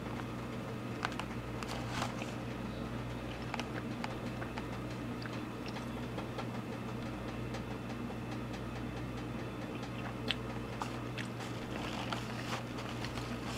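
A person chewing a mouthful of chili dog, with faint scattered mouth clicks over a steady low hum.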